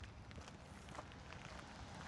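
Faint footsteps at a walking pace, about two steps a second, over a low steady city hum.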